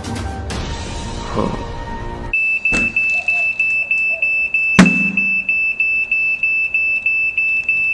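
Music for the first two seconds or so, then a smoke alarm starts beeping, a steady high beep about three times a second. A loud thump comes near the middle while the alarm keeps sounding.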